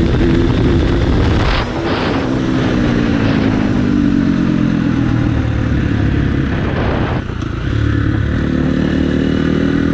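Dirt bike engine running and revving, its pitch rising and falling, with two short drops in level, about one and a half seconds in and again about seven seconds in.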